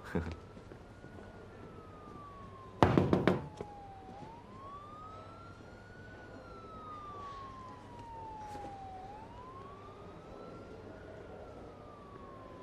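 A siren wailing slowly, its pitch rising and falling about once every five seconds. A short burst of sharp knocks comes about three seconds in and is the loudest thing heard.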